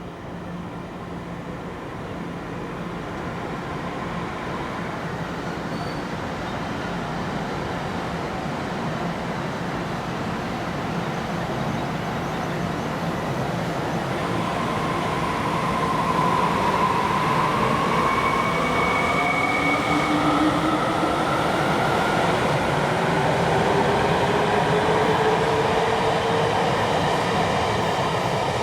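TEMU1000 Taroko Express tilting electric train pulling away and accelerating, growing steadily louder, its traction motors whining in several tones that rise in pitch as it gathers speed over the rumble of wheels on rail.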